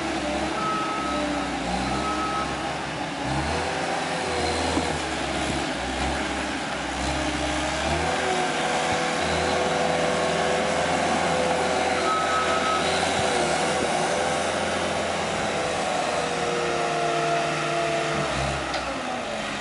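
Cat 287B compact track loader's diesel engine working, its revs rising and falling as it digs and loads, with a backup alarm beeping a few times.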